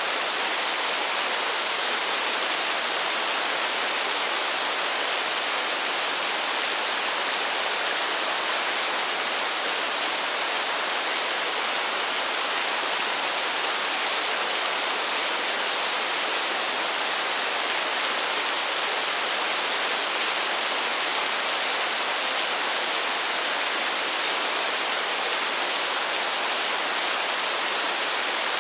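Steady rain: an even, unbroken hiss that sits high, with little low rumble.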